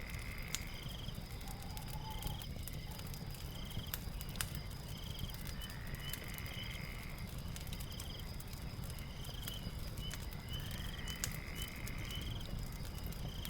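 Night ambience over a crackling fire: insects chirp in a steady high rhythm, and a rising call repeats about every five seconds, over the fire's low rumble and scattered pops.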